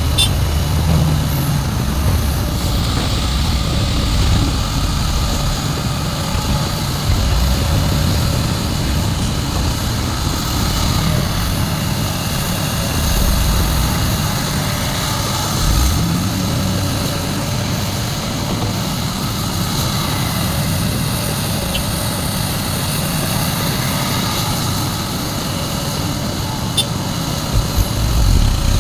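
Heavy diesel engines of a large excavator and a dump truck running steadily as the excavator loads soil into the truck. There are small swells in the level and a few short knocks near the end.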